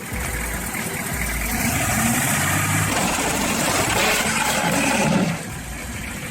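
A vehicle engine running amid a steady rushing noise; the sound drops in level about five seconds in.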